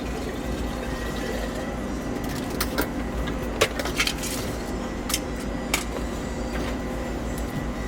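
A steady mechanical hum, like a small motor running, with a handful of sharp clicks and knocks about two to six seconds in.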